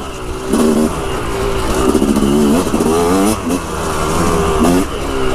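Yamaha YZ dirt bike engine under way, revving up and dropping back several times as the throttle is worked, with wind noise on the microphone.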